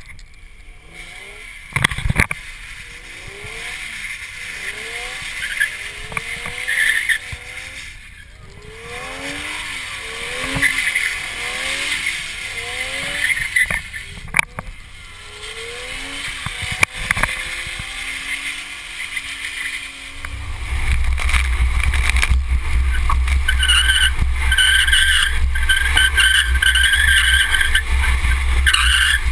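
A Lexus IS300's straight-six revving up and down over and over as the car drifts in circles on wet pavement. About twenty seconds in, a much louder close engine drone takes over, with a broken high squeal on top, as the car carrying the camera spins its tires and smokes.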